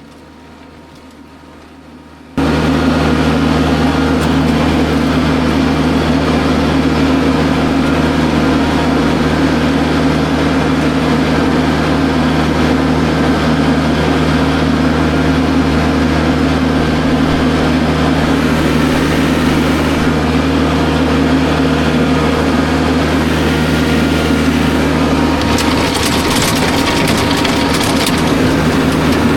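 Kubota tractor's diesel engine running steadily under load, starting abruptly about two seconds in. A rough scraping noise joins it near the end.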